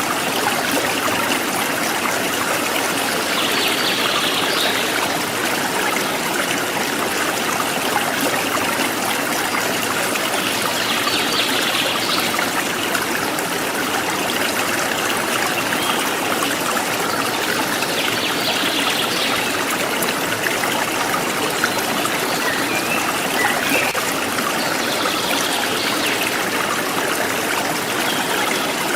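River water flowing and trickling steadily over stones.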